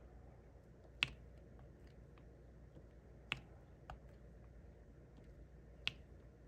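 Sharp, irregular light clicks of a diamond painting pen tapping small resin drills onto the sticky canvas: four louder clicks with fainter taps between.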